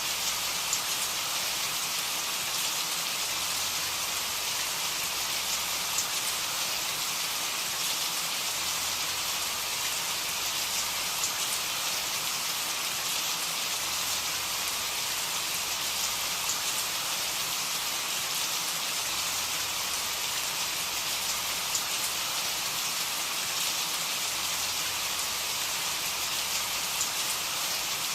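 Steady, even rain falling on a surface, with a constant hiss and scattered faint drop ticks.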